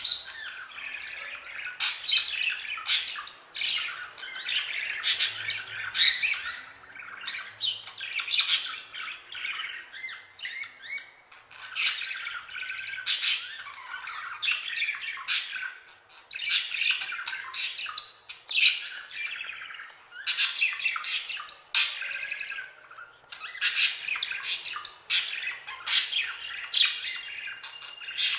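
Budgerigars chattering continuously, with frequent sharp squawks and chirps.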